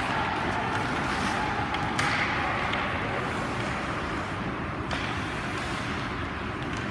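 Ice hockey game sound in a rink: a steady wash of skating and rink noise, with sharp knocks about two seconds in, about five seconds in, and near the end.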